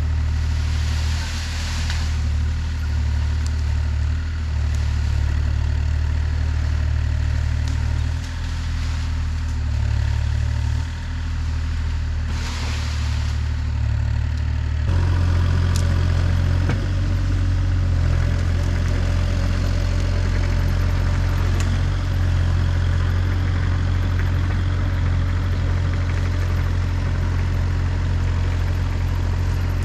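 Engine of an earth-moving machine running steadily, its tone shifting about halfway through, with two brief hissing bursts in the first half.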